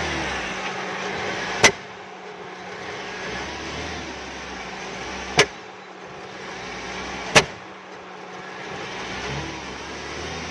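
Suzuki Swift's 1.5-litre engine running rough and misfiring on gas, with three sharp backfire bangs: the first under 2 seconds in, then two more a few seconds apart. The mechanic says the backfiring comes from moisture in the plug wells or a spark plug not firing.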